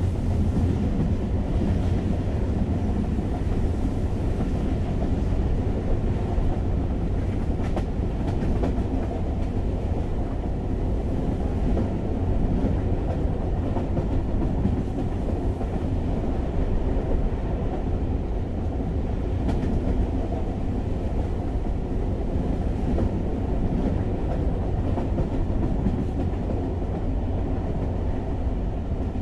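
Passenger train running steadily, a constant low rumble of wheels on rails heard from inside the carriage, with a few faint clicks.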